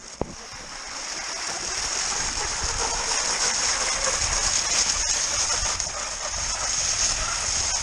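Cross-country skis hissing and scraping over snow as the skier glides downhill, the rushing noise building over the first couple of seconds as speed picks up and then holding steady.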